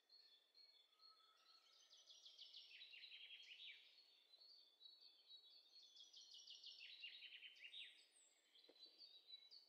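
Faint birdsong: two runs of quick, high trilled notes, each falling in pitch, with thin high chirps between them, and a soft low knock near the end.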